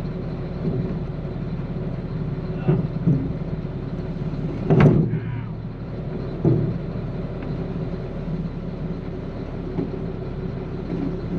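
A vehicle engine running steadily, with several knocks and one loud bang about five seconds in, as a heavy plastic tank is winched and levered onto a truck bed.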